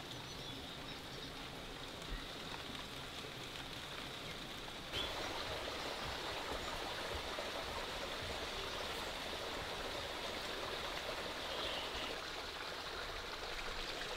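Steady rain falling for about five seconds, then, after a cut, a small stream running steadily and a little louder.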